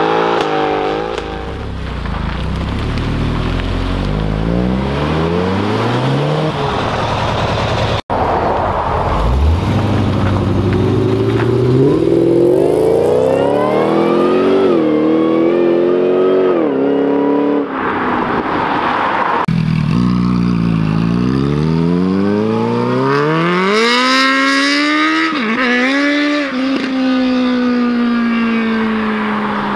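Performance cars accelerating hard away one after another, starting with a Mercedes-Benz C63 AMG V8 pulling away with its tyres spinning; each engine revs up through the gears with a drop in pitch at each upshift. Near the end one car's engine note falls steadily as it moves away.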